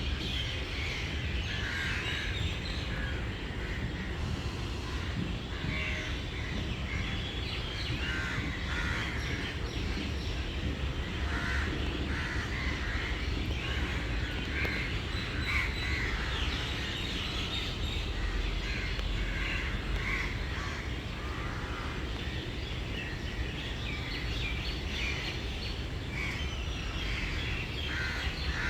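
Birds calling repeatedly, many short calls, over a steady low rumble.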